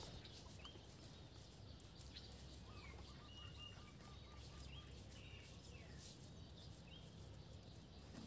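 Near silence outdoors, with a few faint bird chirps and a short rapid trill about three seconds in.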